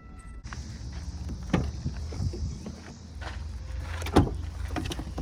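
Several short knocks and clunks of gear being handled, over a steady low rumble with a hiss that comes in about half a second in.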